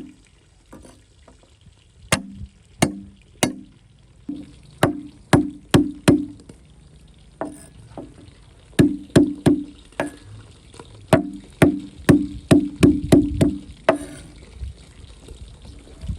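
Kitchen knife chopping on a wooden board: about two dozen sharp strokes, in runs of several strikes at two to three a second, broken by short pauses.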